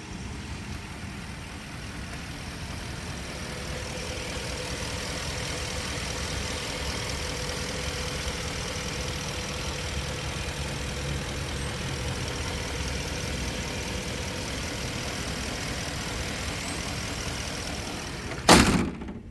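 A 2011 Ford F-150's 6.2-litre V8 idling steadily. A single loud thump comes near the end.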